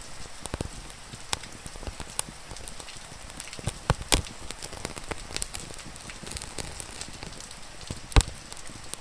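Steady rain falling, with a wood fire crackling and popping over it; a few sharp pops stand out, the loudest about four seconds in and again near the end.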